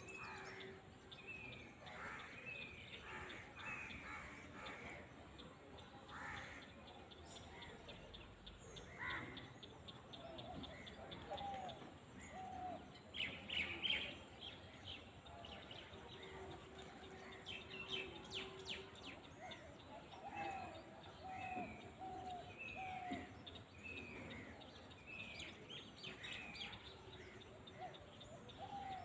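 Several wild birds calling and chirping in open countryside: a run of short, repeated falling chirps, lower repeated two-part notes, and a brief busier flurry of calls about halfway through, over faint outdoor ambience.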